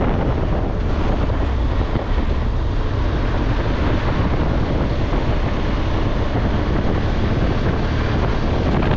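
Wind rushing over the microphone while riding a BMW R1200GSA, with the bike's flat-twin engine and road noise running steadily underneath.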